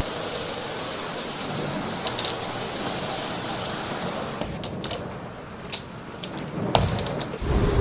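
Steady rain hiss with scattered sharp drip clicks, which come more often in the second half as the hiss eases off for a couple of seconds.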